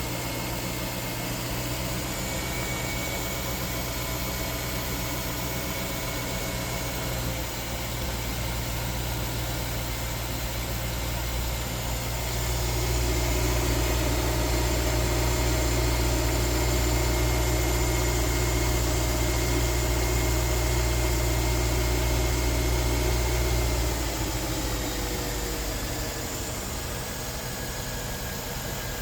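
Mercedes-Benz M273 5.5-litre V8 idling after a cold start, a steady low hum. It gets louder for a stretch midway through, then settles back a little quieter with a slight drop in pitch.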